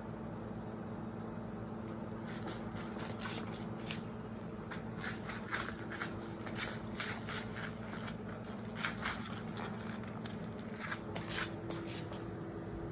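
Steady low hum with scattered soft clicks and rustles of small things being handled.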